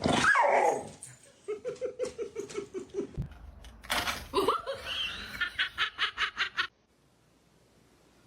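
A loud cry falling in pitch, then a person laughing in two runs of quick, evenly repeated bursts that stop abruptly near the end.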